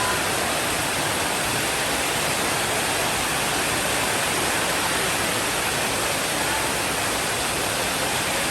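Steady, unbroken rainfall hiss.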